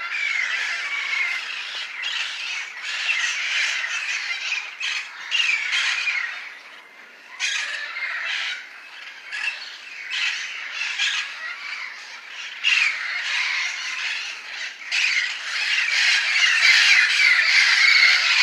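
A large flock of wild parrots squawking in a tree, a continuous din of many overlapping harsh calls, growing louder over the last few seconds.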